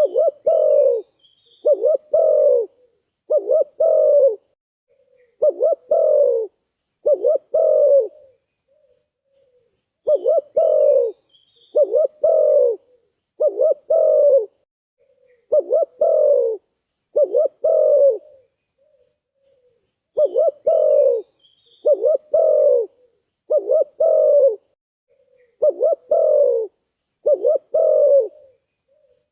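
Spotted dove cooing repeatedly: three bouts of about six deep, rolling coo phrases each, with a short pause between bouts. Faint high chirps of small birds sound in the background.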